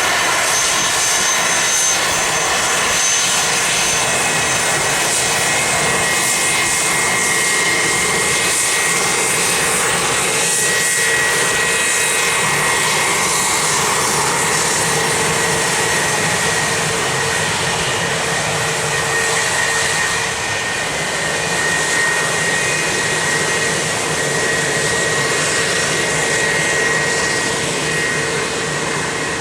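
Private jet's engines running loud and steady: a high whine over a rushing noise.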